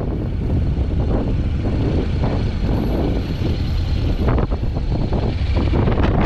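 Wind buffeting the GoPro's microphone on a moving Honda NC750X motorcycle, a heavy rushing rumble that swells and dips, with the bike's parallel-twin engine running underneath.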